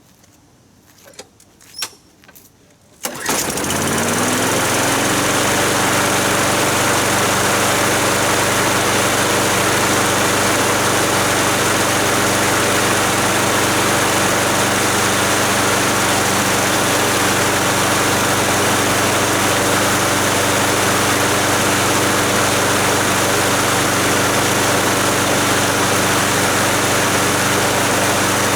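A few clicks, then a lawn mower's small gasoline engine catches about three seconds in. It rises briefly in pitch and settles into a steady run. The engine dies when taken off choke, a fault its owner blames on fuel or carburettor trouble and means to fix by cleaning the carb.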